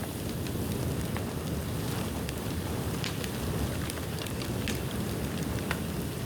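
Bonfire of dry dead bamboo burning: scattered sharp crackles and pops over a steady low rumble.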